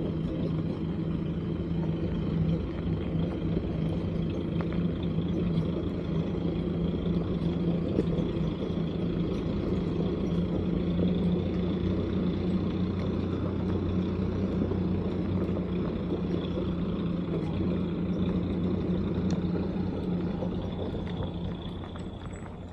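A vehicle engine running at a steady speed, a low drone with a faint high whine above it, easing off slightly near the end.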